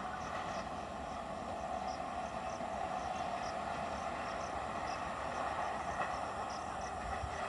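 A train running past, a steady rushing noise with no rhythm or change, over faint short high chirps that repeat throughout.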